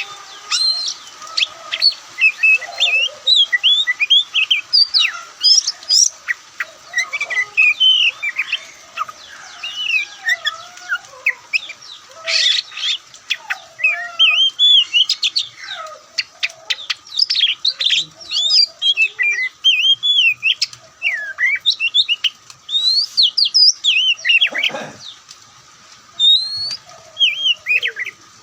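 Oriental magpie-robin singing a loud, varied song of rapid whistled notes, slurs and chirps, in short phrases with brief pauses, with one downward-sweeping call near the end.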